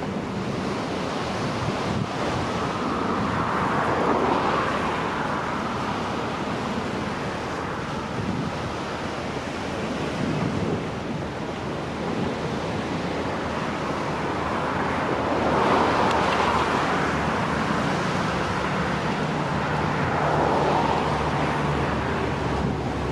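Wind buffeting the microphone over water washing, swelling in surges about 4 seconds in, around 16 seconds and again near 20 seconds. Underneath runs a faint steady low hum.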